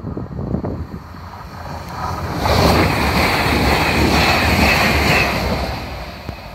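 CrossCountry Voyager diesel multiple unit passing close by at speed: a rush of noise that builds about two seconds in, stays loud for about three seconds, then fades. Wind buffets the microphone throughout.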